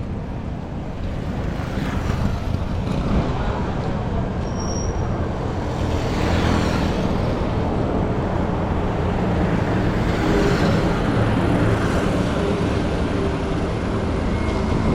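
Street traffic: motor vehicles running and passing close by, with a steady engine hum underneath. Several vehicles swell past, about two, six and ten seconds in, and a heavy engine's hum grows stronger in the second half.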